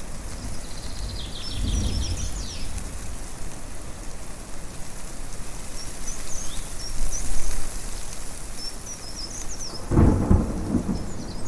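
Thunder rumbling over a steady rushing background: a low roll about two seconds in and a louder, fuller clap near the end. Small birds chirp high above it in short repeated phrases.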